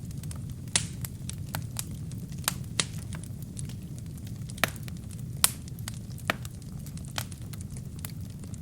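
Burning firewood crackling and popping in a fireplace: irregular sharp pops, a few louder snaps among them, over a steady low rumble of the flames.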